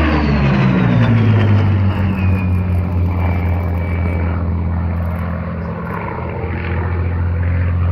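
Vintage piston-engined propeller aircraft flying past low and loud. The engine note drops in pitch as it passes in the first second or two, then settles into a steady drone.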